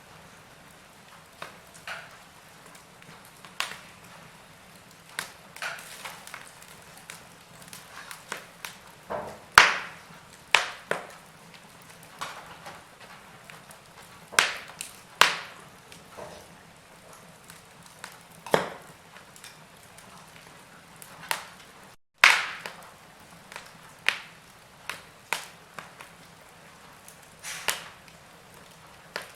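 Wood fire in a fireplace crackling, with irregular sharp pops and cracks over a low steady background. The loudest pops come about a third of the way in and again about two-thirds through, the second right after a split-second drop to silence.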